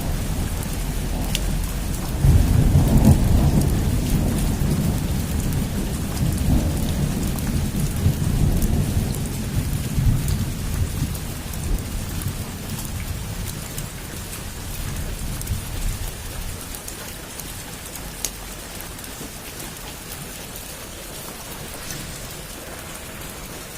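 Heavy rain drumming on a roof, with a long low roll of thunder that swells about two seconds in and slowly dies away over the next dozen seconds.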